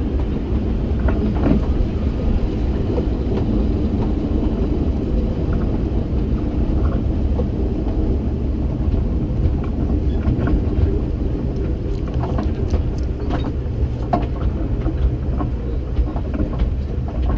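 Kurobe Gorge Railway train, led by an electric locomotive, rolling slowly past close alongside: a steady low rumble of wheels on the rails, with scattered clicks in the second half.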